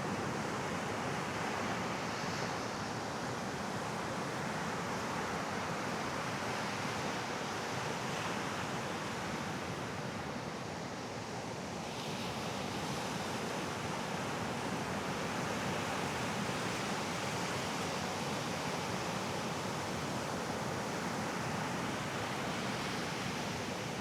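Mediterranean sea waves washing onto a sandy beach: a steady rush that swells and eases slowly, dipping a little about ten seconds in.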